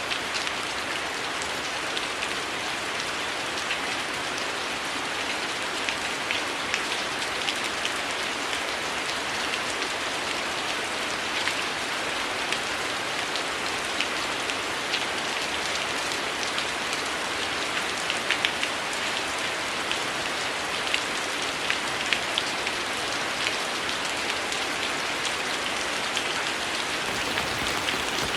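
Heavy rain falling steadily, an even hiss with many close drops pattering through it.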